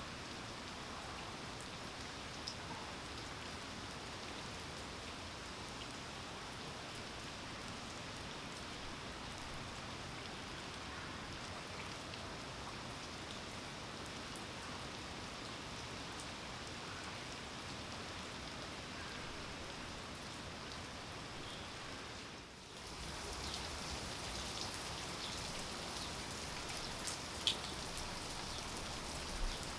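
Steady rain falling, an even hiss of rain on surfaces. About two-thirds of the way in it dips for a moment and comes back a little louder, with individual drops ticking close by.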